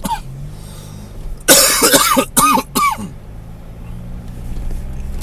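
A person coughing loudly, in a harsh first burst and three shorter ones, over the steady low hum of a car engine inside the cabin.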